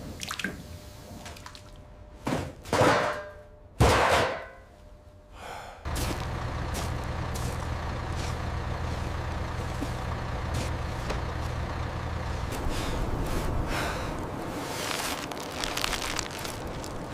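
Several loud hissing bursts about two and four seconds in, then a steady low machine hum that starts suddenly about six seconds in.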